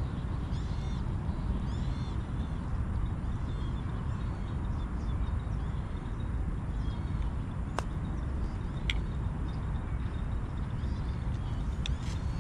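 Birds calling in short repeated chirps over a steady low rumble, with a sharp click about eight seconds in and a fainter one about a second later.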